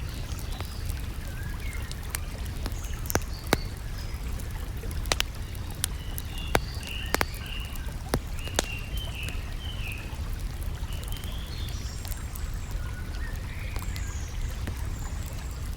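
Campfire crackling, with a run of sharp pops a few seconds in, over a steady low rush, while small birds chirp and twitter.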